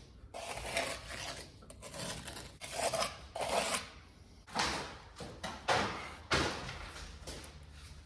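Hand masonry work: irregular scraping strokes and light knocks of a trowel, mortar and stone pieces as cultured stone is set on a fireplace.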